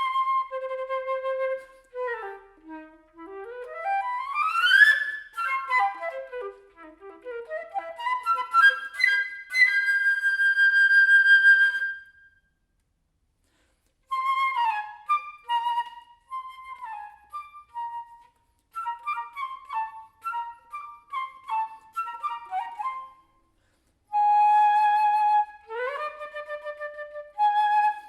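Solo flute playing a contemporary piece: held notes, a fast upward glide and quick runs, a long held high note, then about two seconds of rest before a stretch of short, choppy falling figures, another brief rest, and a held note rising at the end.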